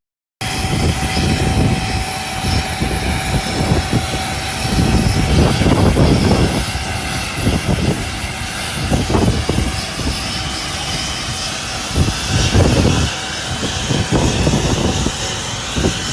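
Aircraft engine noise, a loud steady rumble with irregular low surges.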